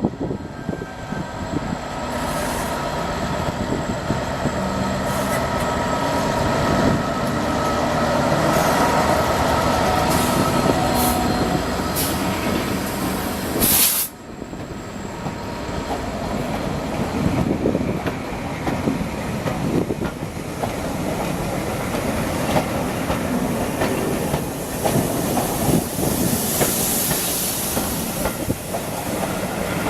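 Railway coaches moving slowly over the track, with squealing wheels in the first half, then, after an abrupt break about 14 seconds in, rhythmic clatter of wheels over rail joints.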